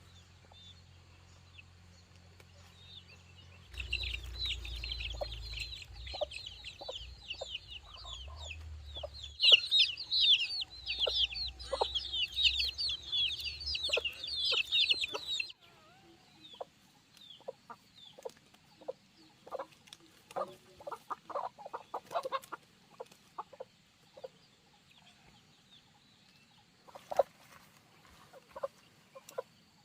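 A flock of chicks peeping: a dense chorus of rapid high chirps starting about 4 seconds in, over a low rumble, cutting off suddenly about halfway through. After that, scattered short clucks from the chickens.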